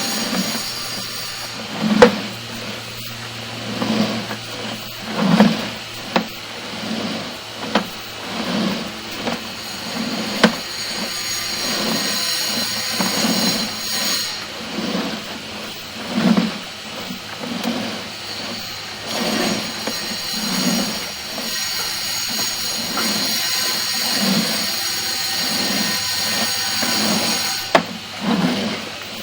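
Sewer inspection camera on its push cable working through a sewer line, making dull knocks about once a second over a steady hiss.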